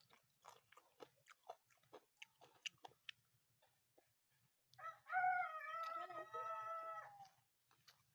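Close-up chewing and crunching of food with the mouth, then about five seconds in a loud, long wavering animal call lasting two to three seconds.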